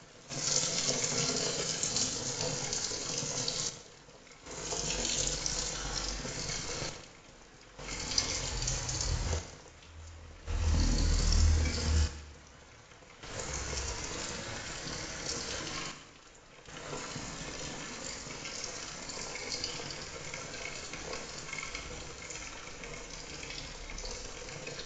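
Heavy rain falling, a steady hiss of water broken into several short stretches with brief drops between them. A loud low rumble comes in around the middle.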